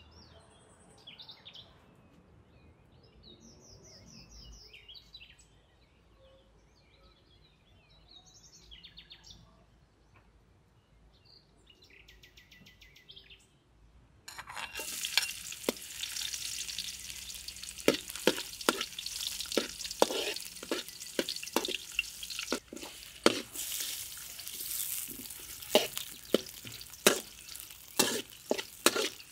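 Faint bird chirps for about the first half. Then oil starts sizzling loudly and suddenly in a wok, with many sharp scrapes and clacks of a spatula as sliced ginger and garlic are stir-fried.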